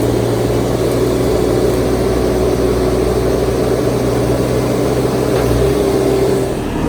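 Bobcat T650 compact track loader's diesel engine running steadily under working load, its pitch shifting slightly near the end.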